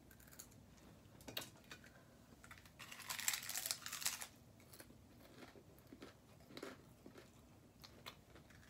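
Quiet eating sounds from a taco mukbang: small clicks of chewing and crunching, with one louder crinkling rustle lasting about a second, starting near three seconds in.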